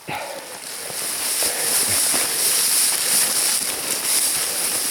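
Campfire burning, with a steady, dense crackle of many small pops over a hiss.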